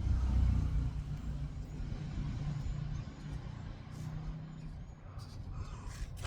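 A low engine rumble, loudest at first and fading away over a few seconds, as of a motor vehicle going by.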